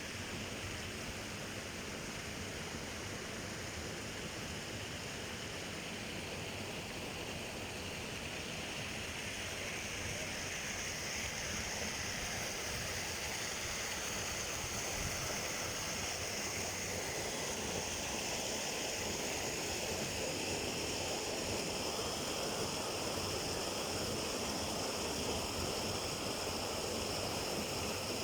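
A hot-spring river flowing steadily, growing a little louder towards the end.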